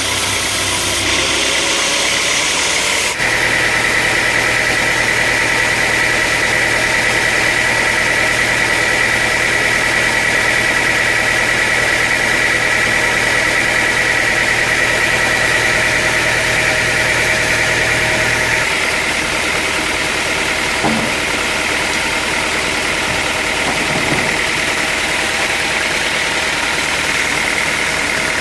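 Sawmill machinery running steadily, with a steady high whine over the running noise that fades about two-thirds of the way through. The sound changes abruptly about three seconds in.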